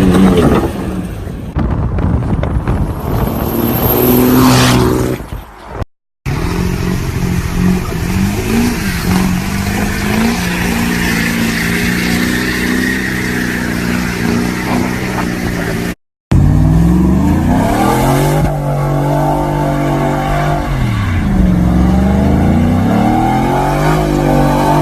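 Pickup truck engines in three clips cut together: first a loud, noisy stretch, then an engine running at a steady speed, then an engine revved up and down several times.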